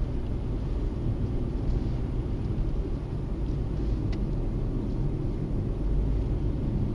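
Steady low rumble of a car on the move, road and engine noise picked up by a dash camera's microphone, with a faint click about four seconds in.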